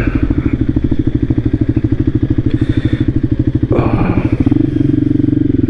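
Voge 300 Rally's single-cylinder engine running at low speed, its firing pulses steady and even; near the end the note smooths out into a steadier hum.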